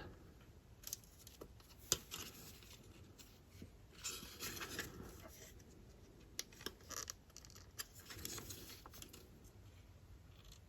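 Faint, scattered clicks and soft rustling of small plastic model-kit parts being handled and pressed into place.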